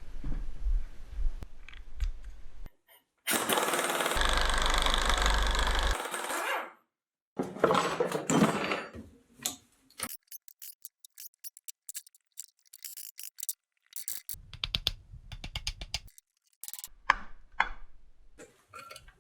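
Workshop work noise in short clips cut together with abrupt silent gaps: a few seconds of a steady, loud tool-like noise, then runs of rapid clicks and knocks.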